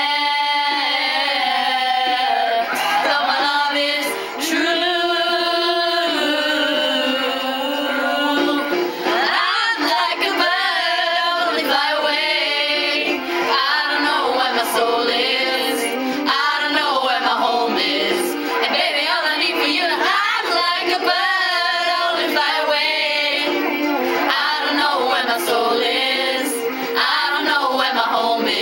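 Several girls singing a pop song together in unison, their voices steady and fairly loud throughout.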